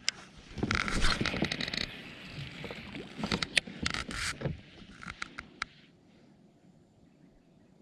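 Scraping and clicking of gear being handled on a fishing kayak: a loud rattling rush about a second in, more scattered clicks a couple of seconds later, then it fades to quiet.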